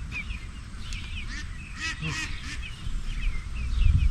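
Poultry calling: a run of small chirping peeps, and about two seconds in a louder, harsh honk-like call from an adult bird. Low knocking and rumbling come in near the end.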